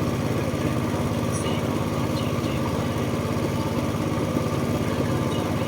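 Small tour boat's engine running steadily, a fast even chugging.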